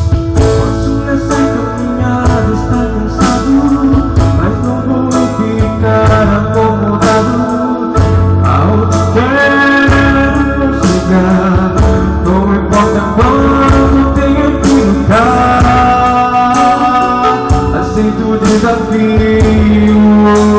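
A band playing a song: drum kit keeping a steady beat under bass and guitar, with a melody line sliding between notes over it.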